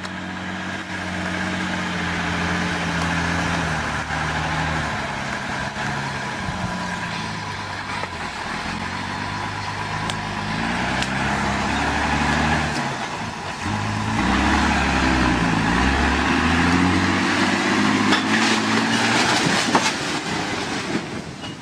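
Truck engine running under load, its pitch stepping down and back up again and again. It grows louder and deeper about fourteen seconds in.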